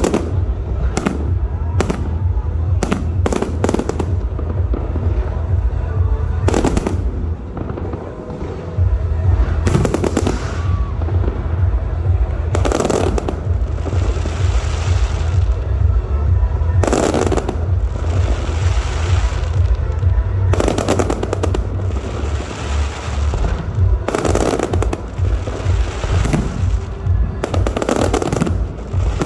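Fireworks going off repeatedly: sharp bangs, several trailing off into about a second of crackle, over a steady low rumble.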